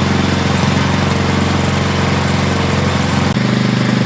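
Small gasoline engine of a walk-behind power carrier running steadily with its fuel cock shut, burning off the petrol left in the carburetor until it stalls, which leaves the carburetor clean and dry.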